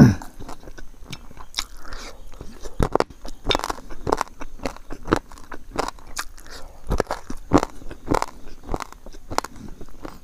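A person chewing and crunching food close to a clip-on microphone, with many irregular crisp crunches. There is a loud thump right at the start.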